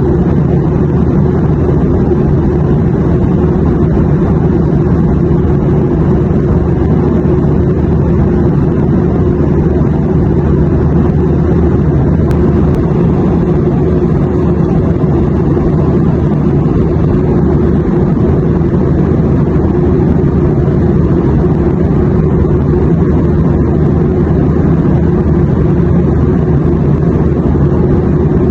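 Steady airliner cabin noise: a constant deep rumble of engines and airflow with no change in level.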